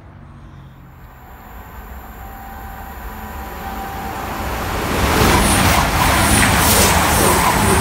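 Diesel multiple-unit passenger train approaching along the line and running past the platform. Its engine and wheel noise grows steadily louder over the first five seconds, then becomes a loud, steady rush as the carriages go by.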